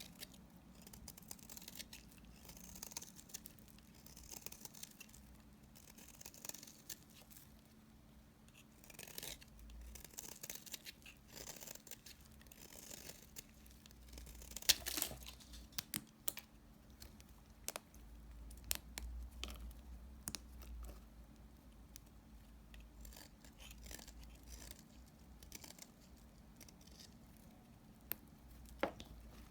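Knife cutting through leftover pieces of dry bar soap: a run of crisp scraping, crunching strokes and sharp clicks, the loudest about halfway through.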